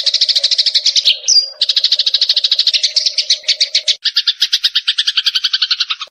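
Eurasian tree sparrows chattering in a fast, unbroken run of chirps, about a dozen a second, with a short break a little over a second in and a shift to a lower, fuller chatter about four seconds in. The chatter cuts off abruptly at the end.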